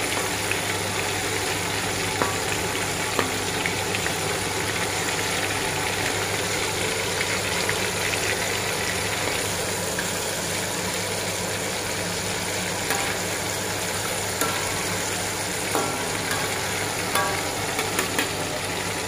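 Battered squid frying in hot oil in a wok: a steady sizzle and bubbling, with a few short clicks now and then and a steady low hum underneath.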